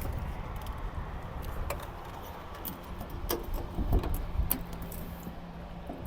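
Scattered light clicks and taps from handling small hard objects, over a low rumble of wind and distant background noise.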